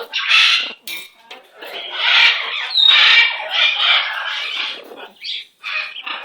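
Pet parrot squawking in a string of calls of varying length, with short gaps between them.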